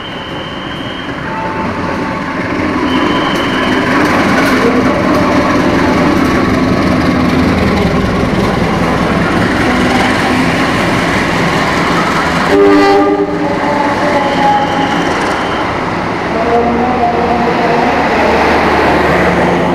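Passenger train passing through the station at speed without stopping: the coaches rush past with wheels clattering over the rail joints. The sound builds over the first few seconds, and a few brief high squeals come through.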